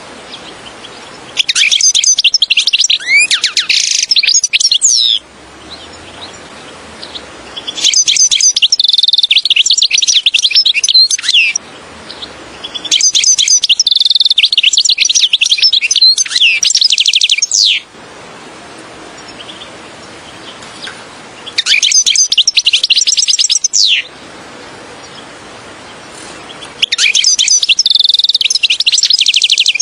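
European goldfinch singing: five bouts of fast, twittering, tinkling song, each a few seconds long, with short pauses between.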